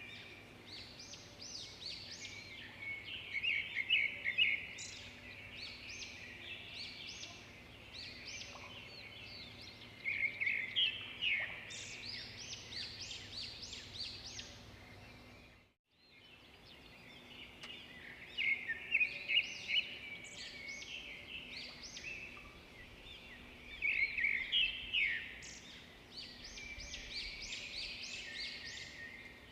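Pet budgerigars chattering and warbling together, a busy stream of rapid high chirps that swells into louder bouts every few seconds. The sound cuts out for a moment about halfway through.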